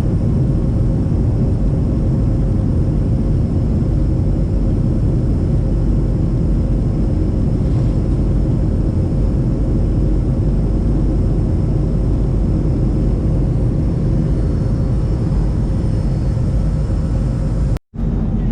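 Airliner cabin noise in flight: a steady, loud rumble of engines and airflow with a faint steady hum over it. The sound drops out completely for a split second near the end.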